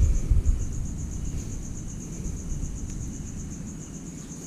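Crickets trilling: a steady, fast, evenly pulsing high chirr. Two low thumps in the first half second.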